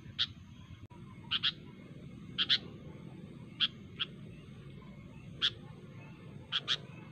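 Sooty-headed bulbul (kutilang) giving short, sharp call notes, singly and in quick pairs, about one call a second, the kind used as a lure call to draw rival birds.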